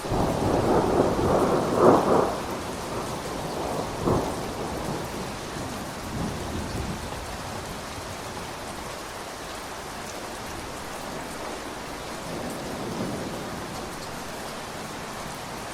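Steady rain with thunder: a loud roll of thunder in the first couple of seconds, a sharper crack about four seconds in, then fainter rumbles.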